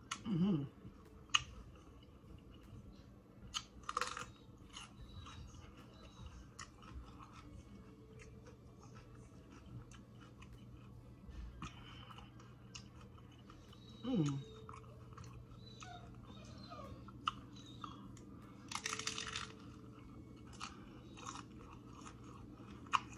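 Close-up chewing of a crunchy hard-shell taco: scattered crisp crunches and wet mouth clicks, with a denser burst of crunching about three quarters of the way through.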